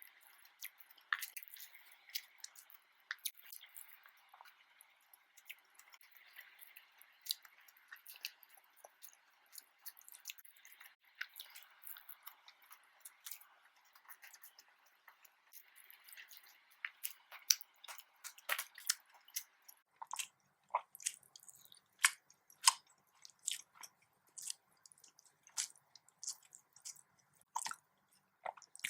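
A person chewing nasi dagang close to the microphone, with many short wet mouth clicks and smacks that grow louder and more frequent in the last third. A faint steady hiss underlies the first two-thirds and then stops.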